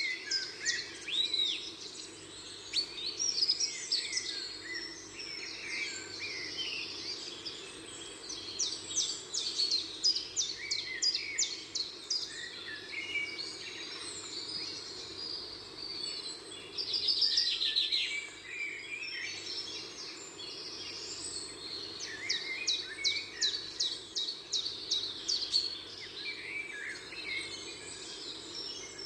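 Small birds chirping and twittering: many short calls and quick trills, busiest around a third of the way in, in the middle and again towards the end, over a steady low hum.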